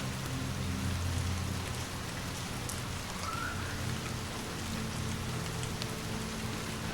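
Steady rain falling, with a few faint crackles from a fireplace and a low steady drone underneath.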